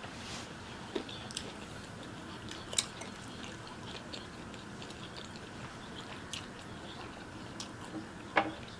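People chewing food: soft wet mouth clicks and smacks come every second or so, with a sharper, louder click near the end.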